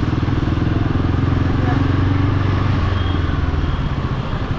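Royal Enfield Guerrilla 450's single-cylinder engine running at steady low revs in city traffic, an even train of exhaust pulses, easing off slightly near the end.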